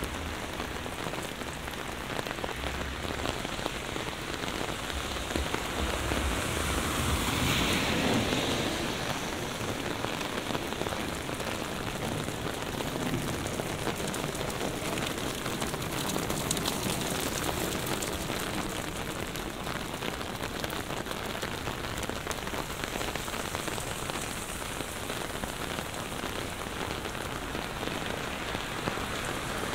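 Heavy rain falling steadily and pattering on surfaces, swelling louder for a couple of seconds about seven seconds in.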